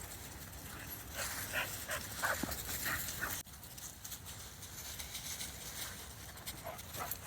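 Dogs playing together: panting and a string of short barks or yips, with a sudden break about three and a half seconds in.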